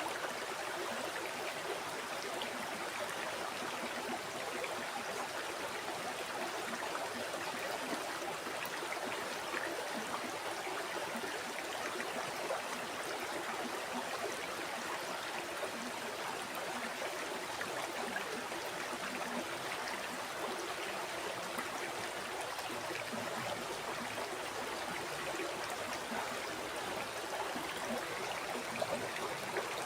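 River water flowing steadily over rocks, a continuous rushing with small gurgles and trickles.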